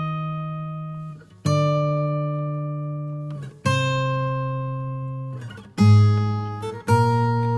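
Background music: an acoustic guitar strumming slow chords. Each chord is left to ring and fade for about two seconds before the next, and the last two come closer together near the end.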